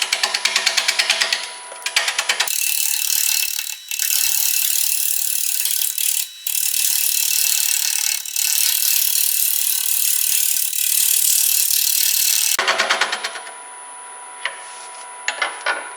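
Wood lathe turning an out-of-balance spalted oak blank at about 550 RPM while a turning tool cuts it down: a rapid, even chatter of about ten hits a second as the tool strikes the high side each turn. After a couple of seconds this gives way to a steady hiss of cutting, which stops near the end, leaving a quieter running sound.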